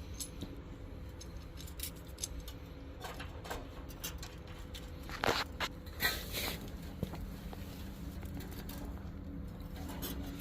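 Scattered small clicks, taps and scrapes of hands handling a refrigerant line fitting and tools, over a steady low hum. The loudest clicks come about five and six seconds in.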